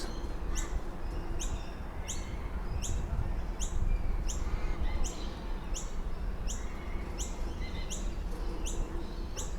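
A bird chirping: short high falling chirps repeating about twice a second, over a steady low rumble of city traffic.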